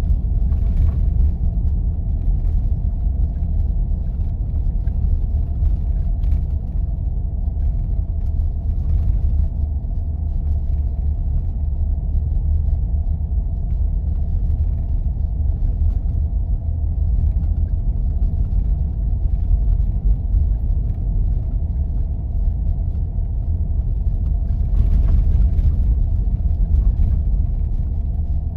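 A vehicle driving on snow-covered roads: a steady low rumble of engine and tyres, with a faint steady hum above it.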